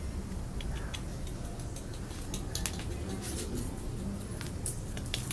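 Irregular light, sharp clicks and taps, sparse at first and coming more often from about two seconds in, over a low steady rumble.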